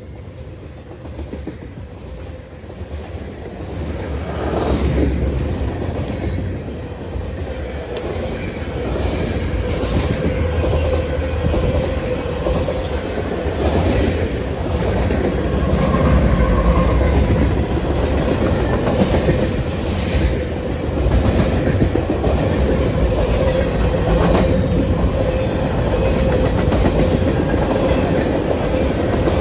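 Train rolling past, its wheels clacking over rail joints above a steady low rumble, louder from about four seconds in as it draws closer.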